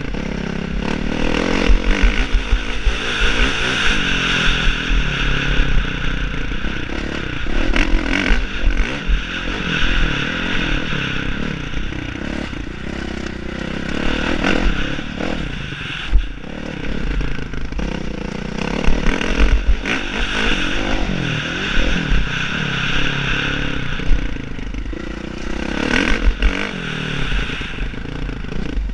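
Motocross dirt bike engine revving up and easing off over and over, swelling and fading every few seconds, with frequent low thumps and rattles.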